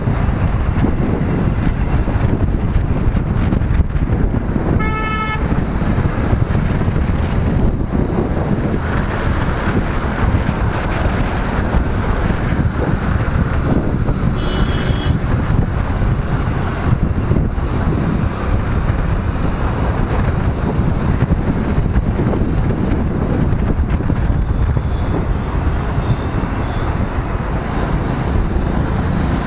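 Steady engine and road noise of a motorcycle riding in city traffic, with a vehicle horn honking briefly about five seconds in and a shorter, higher horn toot near the middle.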